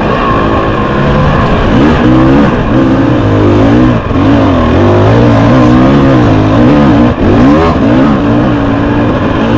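Husqvarna 300TX two-stroke dirt bike engine revving up and down under load, its pitch rising and falling with the throttle, with brief drops about four and seven seconds in.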